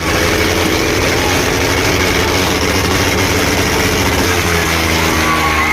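Heavy diesel tractor engine running steadily and loudly.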